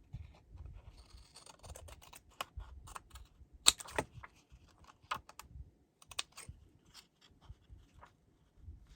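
Paper strips being trimmed off the edge of a card: irregular crisp snips and clicks, with light paper handling in between.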